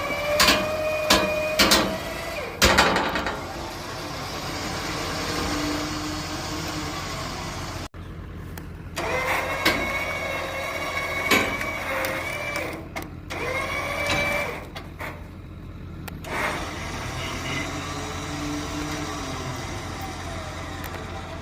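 Trailer-mounted log loader running under load as it lifts a large maple log: a steady engine drone with a held whine that shifts pitch slightly, and several sharp knocks in the first few seconds.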